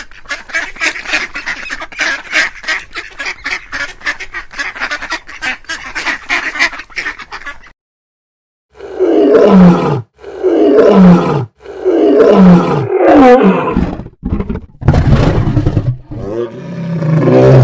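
Ducks quacking rapidly and continuously, breaking off suddenly. After about a second of silence, a big cat roars several times in a row, each roar loud and falling in pitch.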